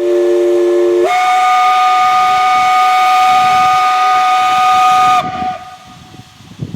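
Steam locomotive whistle sounding for departure: a low three-note chord for about a second, then a single higher, louder tone held for about four seconds before it cuts off. Steam hiss and low rumble follow.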